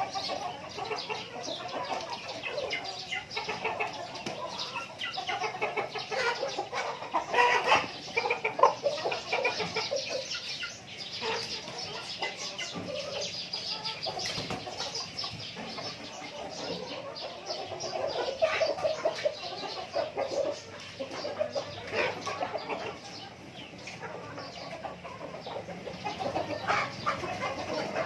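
A flock of native chickens clucking and calling continuously, many birds at once, loudest about seven to nine seconds in.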